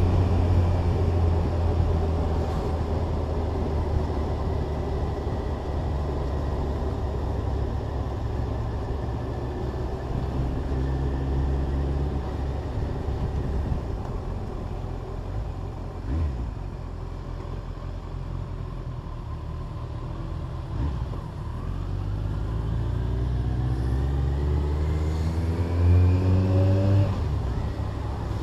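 Kawasaki ZZR1400 sport-tourer's inline-four engine running as the motorcycle is ridden. Over the last several seconds the engine pitch rises steadily under acceleration, then drops at a gear change near the end.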